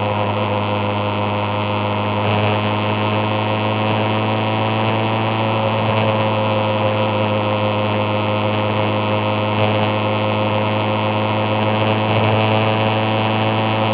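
Yamaha FZR1000 (3GM) inline-four engine running at a steady cruising speed on the expressway, heard from a camera mounted on the bike. The engine note holds an even pitch throughout, over steady road and wind noise.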